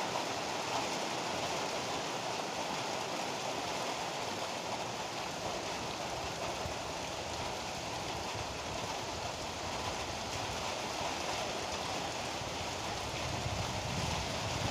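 Heavy rain pouring steadily. Near the end a low rumble of thunder begins to build.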